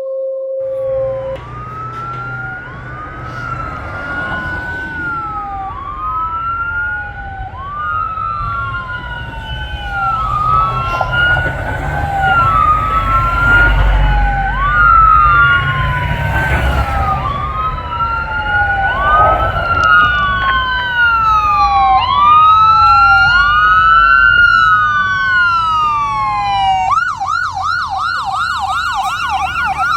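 Fire engine siren sounding on a responding 2019 Spartan Metro Star pumper: a repeating sweep that rises quickly and falls more slowly about every two seconds, switching near the end to a rapid yelp. The truck's engine and road rumble run underneath and swell in the middle as it passes.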